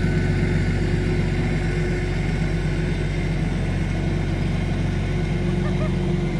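Diesel tractor engine running steadily at constant speed.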